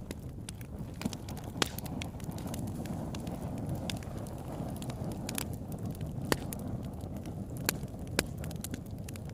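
Wood campfire burning: a steady low rush of flames with scattered sharp crackles and pops, a few of them loud snaps.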